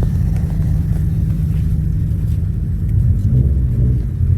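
Car engine running close by, a steady low rumble that swells slightly a little past three seconds.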